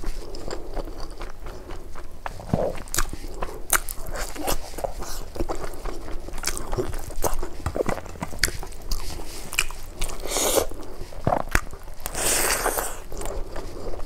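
Close-miked chewing of a mouthful of rice and vegetables, with irregular wet mouth clicks and smacks throughout. Brief louder rustling hisses come about ten and twelve seconds in.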